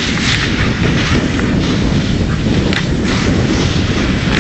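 Dog sled moving over snow: a steady rumbling scrape of the runners, with wind buffeting the microphone.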